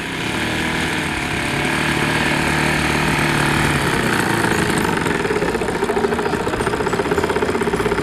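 The four-stroke engine of an RC Tiger Moth model biplane running. About halfway through it settles into a slower, evenly pulsing idle.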